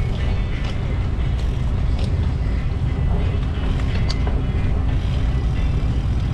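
Wind rushing over the microphone of a camera riding on a moving bicycle, a steady low rumble, with a few light clicks and ticks scattered through it.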